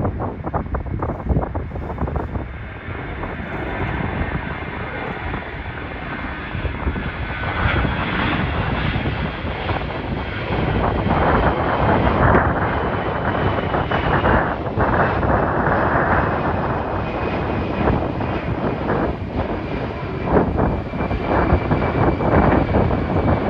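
Jet airliner's engines on departure: a loud roar with a high whine that slowly falls in pitch.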